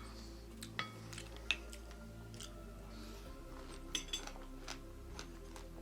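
Metal spoon clinking against a bowl a handful of times, a few of the strikes ringing briefly, as spoonfuls of fruit in coconut water are scooped up.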